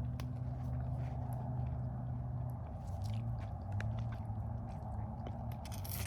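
A person biting and chewing a freshly picked, sweet ripe fruit close to the microphone: a run of short wet clicks and crunches. A steady low hum runs underneath.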